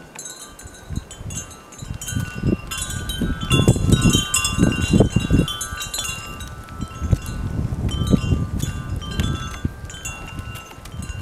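Metal wind chimes ringing and clanging in the wind, several steady tones overlapping. Wind buffets the unshielded microphone in low gusts that swell and fade, loudest a few seconds in.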